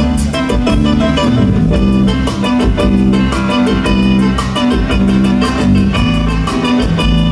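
Live band music with keyboards, organ and piano-like, over a steady rhythmic beat.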